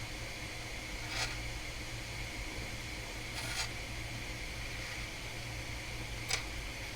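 Workbench room tone: a steady low electrical hum and hiss with a faint high steady whine, broken by three faint, brief rustles.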